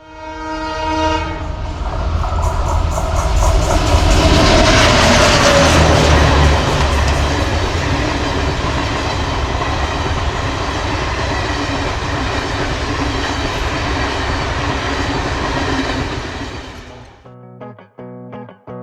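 Diesel locomotive horn sounding a short chord, then the EMD WDP4-family diesel locomotive passing close with a heavy engine rumble, followed by the steady rattle of the passing coaches. The sound cuts off suddenly near the end and electric-guitar music begins.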